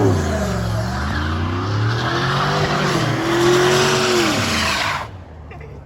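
A car doing a burnout: the engine revs, dipping and rising in pitch several times, over the hiss and squeal of spinning tires, and it all cuts off suddenly about five seconds in.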